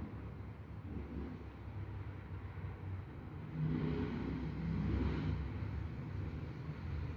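Low rumble of thunder from a storm, swelling from about halfway through and growing louder toward the end.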